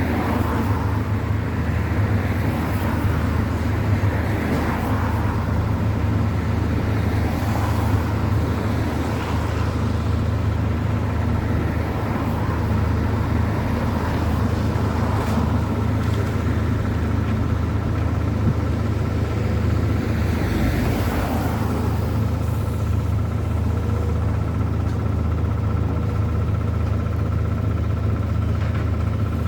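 Steady engine noise from motor vehicles, a constant low rumble with a faint high tone joining about two-thirds of the way through.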